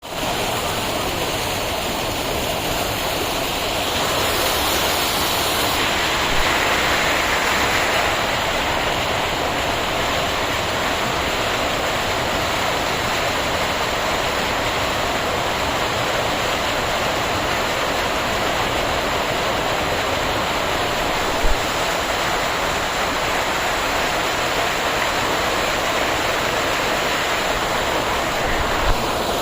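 Waterfall rushing, a steady dense roar of falling water. A few brief low thumps, near 6, 21 and 29 seconds in, stand out above it.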